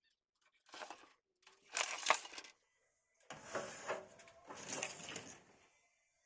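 Crinkling and rustling of packaging being handled, in four short bursts.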